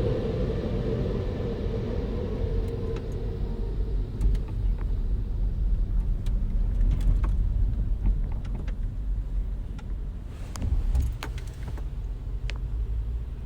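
Car running with a steady low rumble, and a higher hum fading out over the first few seconds. Scattered light clicks and ticks fall throughout.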